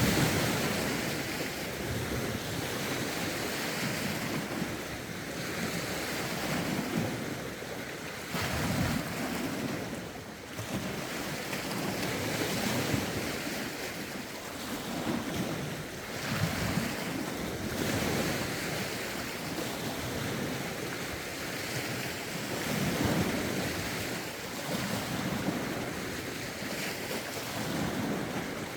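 Small lake waves washing and lapping against the shore in irregular swells every few seconds, with gusty wind buffeting the phone's microphone in low rumbles.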